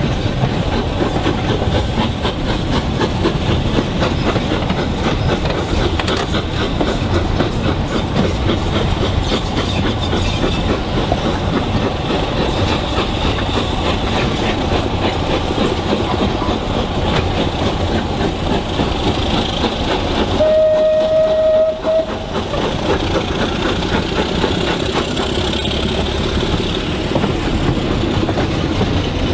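Passenger train headed by a Class 24 diesel and an L&Y A class steam locomotive running past, its wheels clicking steadily over the rail joints as the coaches go by. About two-thirds of the way through, one short steady whistle note sounds for about a second and a half.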